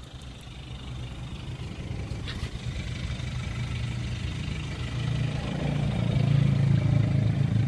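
A motor vehicle's engine running with a low steady hum that grows gradually louder, with a faint click about two seconds in.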